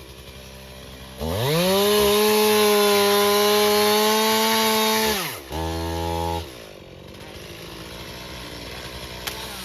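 Two-stroke chainsaw throttled up, running at high speed for about four seconds, then dropping back to idle.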